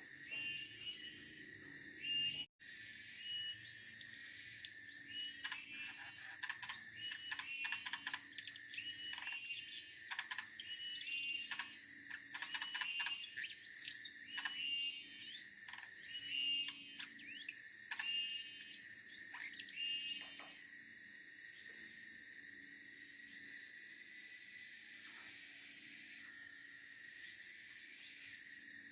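Siberian blue robin singing: short, high phrases of quick chirping notes and sweeps, coming thick and fast in the first half and every second or two later on, over a steady high hum.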